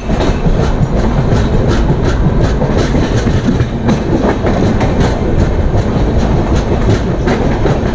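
Passenger train running along the track, heard loudly from a moving coach: a steady rumble with the clickety-clack of wheels over rail joints.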